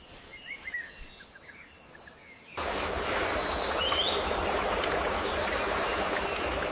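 Rainforest ambience: insects buzzing steadily, with a few faint bird chirps. About two and a half seconds in, it cuts suddenly to a louder, steady hiss of rain over the insects.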